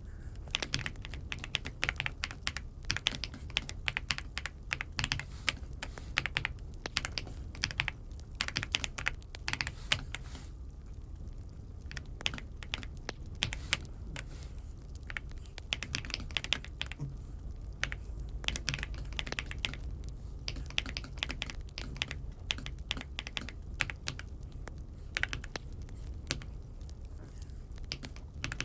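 Typing on an Aula F75 mechanical keyboard: fast runs of key clicks broken by short pauses.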